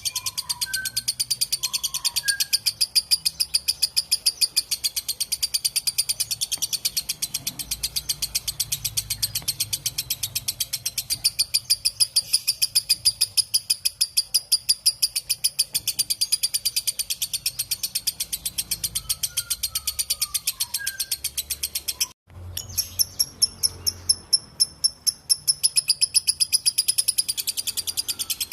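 Lovebird doing its long 'ngekek' chatter: a fast, unbroken run of shrill, rapid-fire calls. It cuts out abruptly for a moment about two-thirds of the way through, then resumes. A few faint, lower chirps sound behind it.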